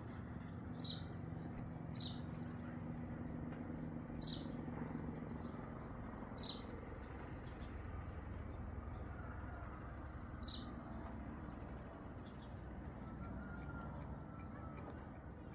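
A bird giving five single sharp chirps, spaced one to four seconds apart, over a steady low background rumble.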